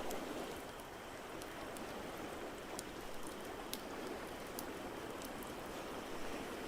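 Fireplace crackling, with scattered sharp pops, over a steady rushing wash of water.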